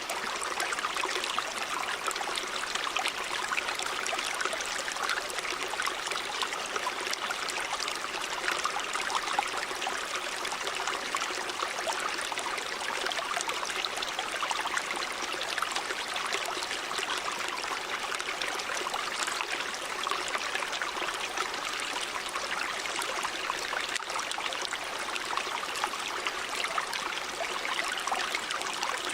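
A river running over rocks: steady rushing water with fine trickling and splashing detail.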